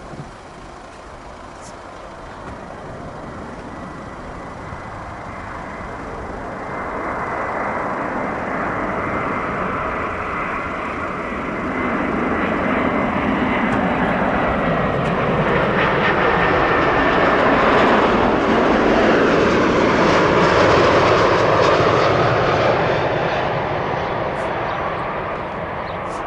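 Airbus A340's four jet engines as the airliner lands, a steady roar with a thin high whine that dips slightly in pitch. It grows steadily louder, peaks about three-quarters of the way through, then starts to fade.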